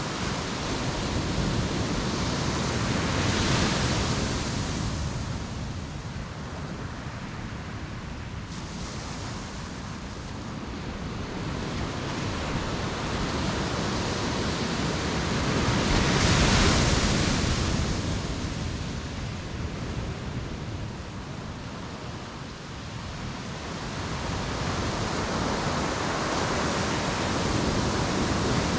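Ocean waves breaking and washing up the beach in slow swells. The surf is loudest about three seconds in and again just past the middle, ebbs between, and builds again near the end.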